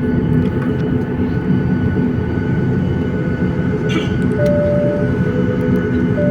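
Steady low rumble and hum inside a vehicle on the move, with a short steady beep about four and a half seconds in.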